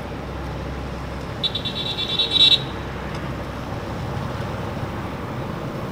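Steady outdoor background noise. About a second and a half in comes a brief high-pitched squeak lasting about a second, louder than everything else.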